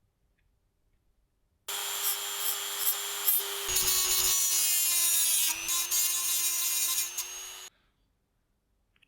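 A small electric power tool running against a workpiece for about six seconds, a steady motor tone under a loud grinding hiss; it starts and stops abruptly.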